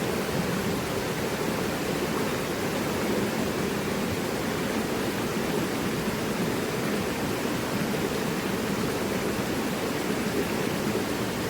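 Mountain river rushing over rocks: a steady, full rush of water.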